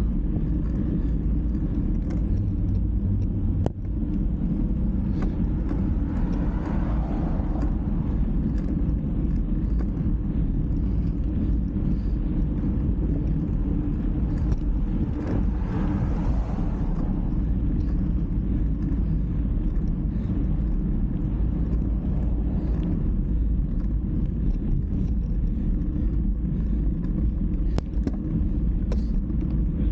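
Steady low rumble of ride noise, wind and road, with two brief swells of rushing noise about 6 and 15 seconds in.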